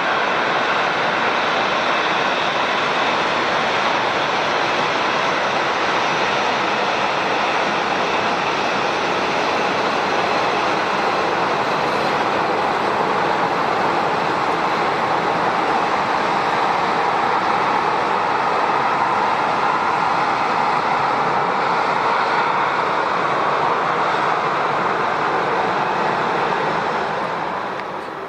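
Jet airliner engines running, a loud steady rush of noise that eases off near the end.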